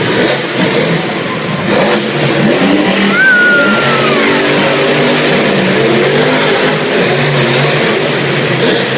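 Monster truck engine revving loudly, its pitch rising and falling, with a brief falling whistle-like tone about three seconds in.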